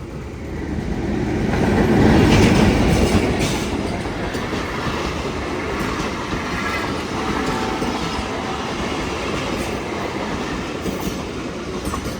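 A train passing close by: the rumble and wheel clatter swell to their loudest about two seconds in, then run on steadily with occasional sharp clicks.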